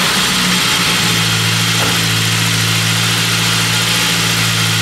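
Saab 9-5 Aero's 2.3-litre turbocharged four-cylinder engine idling steadily.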